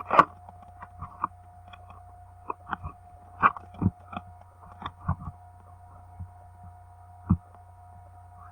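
Steady electrical hum at a few fixed pitches, with scattered soft knocks and clicks. The loudest knocks come about three and a half seconds in and again near seven seconds.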